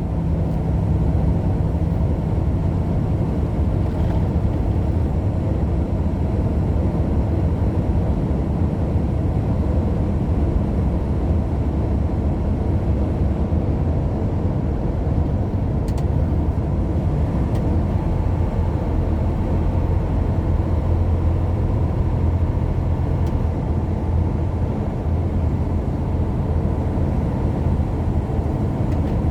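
Steady low rumble of road and engine noise from a vehicle cruising at an even speed, heard from inside, with a couple of faint clicks.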